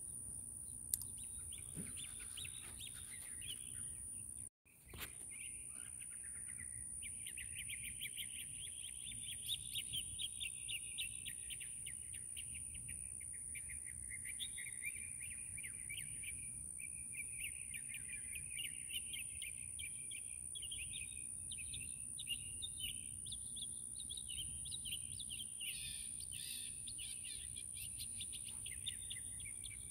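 Birds chirping and twittering without pause, a dense run of rapid high chirps that wavers up and down in pitch, over a steady high-pitched whine and a low hum. Everything cuts out for a moment about four and a half seconds in.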